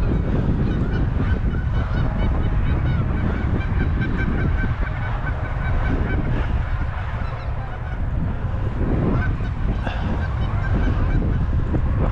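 Many geese honking, short overlapping honks repeating steadily, over a heavy low rumble of wind on the microphone.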